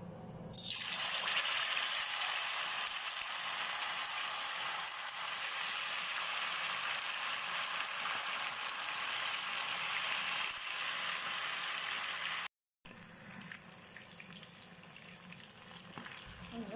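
Marinated chilli-chicken pieces going into hot oil in a kadai and deep-frying: a loud sizzle starts suddenly about half a second in and holds steady. It cuts out briefly at about twelve seconds and comes back as a quieter sizzle, the oil settling as the chicken fries.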